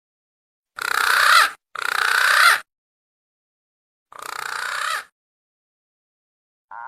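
Recorded lure call of green pigeons (punai): three harsh, raspy calls of about a second each, the first two back to back and the third after a pause of about a second and a half.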